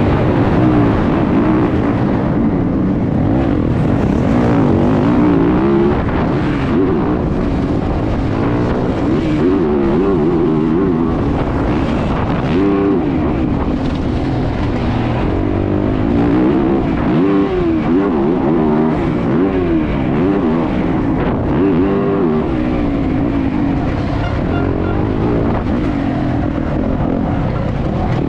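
Motocross bike engine heard onboard at race pace, revving hard and backing off over and over, its pitch rising and falling every second or two as the rider works through the gears.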